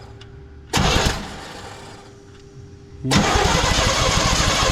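Starter motor cranking the 1984 Chevy C20's engine in two bursts, about a second in and again about three seconds in, the second one longer, without the engine firing. It will not catch because there is no spark.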